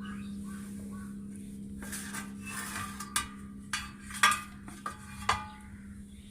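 Metal clinks and clatters of a diagnostic power supply's casing being taken apart, with about five sharp knocks in the latter part, over a steady low electrical hum.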